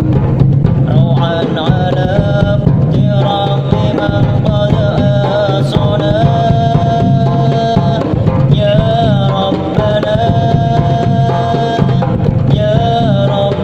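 Hadroh ensemble of frame drums and darbuka playing a dense, driving rhythm with darbuka rolls, under a wavering, gliding melody line.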